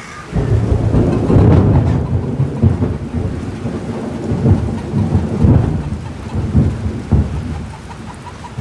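A thunderclap rumbles in suddenly about a third of a second in, loudest over the next second or two, then rolls on in waves and slowly fades, with steady rain falling underneath.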